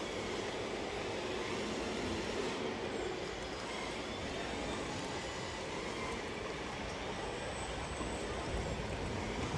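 Radio-controlled scale model vehicle running steadily, a mechanical hum with a noisy rumble and no sudden events.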